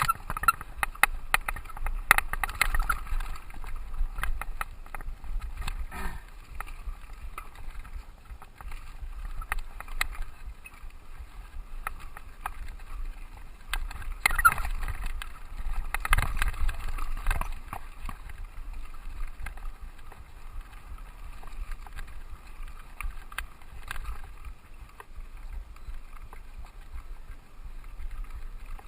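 Mountain bike being ridden over a dirt trail: tyre noise with frequent rattles and knocks from the bike on rough ground, and wind on the microphone. The ride is bumpiest about fourteen to eighteen seconds in.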